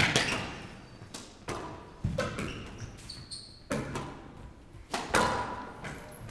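Squash ball struck by rackets and smacking off the court walls in a rally, five sharp hits about a second or a second and a half apart, each ringing on in the enclosed court. There are brief high shoe squeaks on the court floor in the middle.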